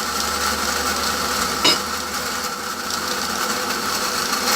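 A steady mechanical whir with a constant tone, and a single sharp knock about a second and a half in.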